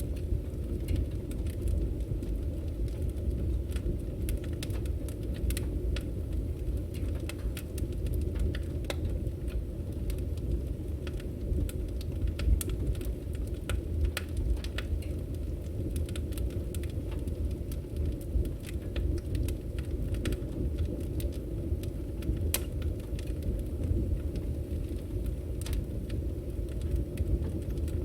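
Firewood burning: a steady low rumble of flames with frequent sharp crackles and pops scattered irregularly through it.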